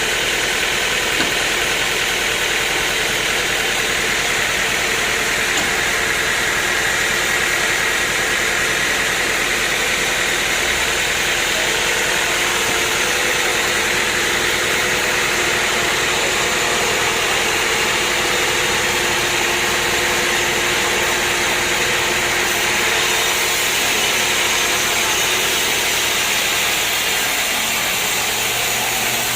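Sawmill machinery running steadily, a constant mechanical din with no break.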